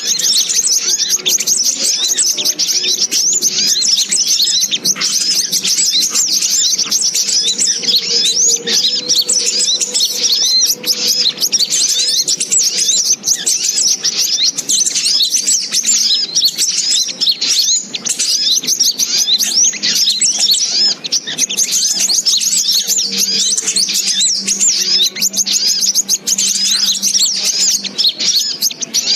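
Sogok ontong (spiderhunter) lure call for bird trapping: a loud, unbroken stream of rapid high chirps and twitters that never pauses.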